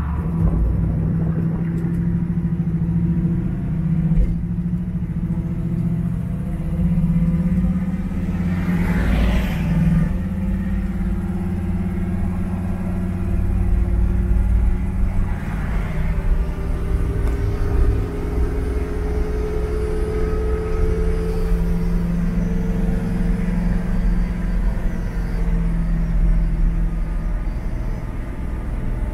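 A 1969 Chevrolet Camaro's Corvette LT1 350 V8, breathing through long-tube headers and Flowmaster dual exhaust, running at steady cruising speed, heard from inside the cabin. The engine note climbs slowly about halfway through, and there is a brief whoosh about nine seconds in.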